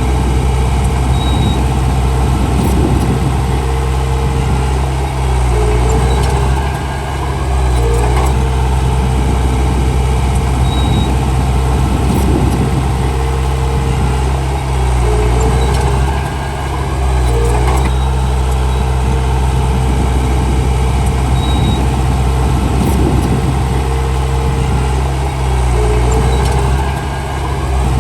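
Komatsu D31P bulldozer's diesel engine running steadily under load, with a brief dip in engine speed about every ten seconds.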